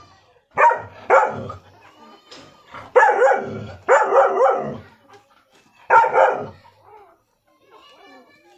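A dog barking loudly five times, with the third and fourth barks drawn out longer than the rest.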